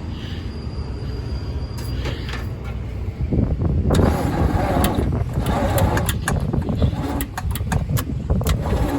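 Old Chevy 350 V8 cranking and sputtering as it tries to run on gas poured down the carburetor, growing louder and rougher with sharp pops from about three seconds in.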